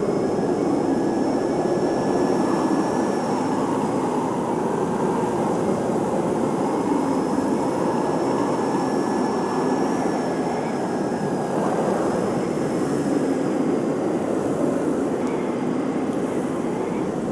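Blizzard wind blowing steadily and hard, a deep continuous rush with faint high whistling tones that slowly rise and fall.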